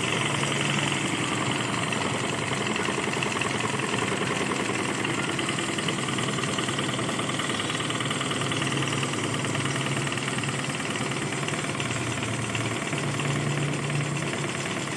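Small homemade Stirling engine running steadily, with a fast, even mechanical clatter.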